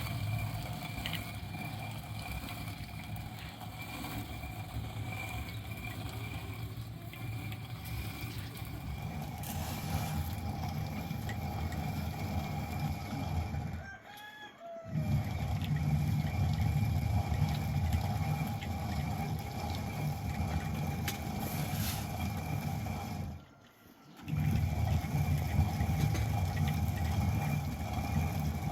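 Chickens clucking and a rooster crowing over a steady low rumble. The sound drops out briefly twice, about halfway through and again near the end.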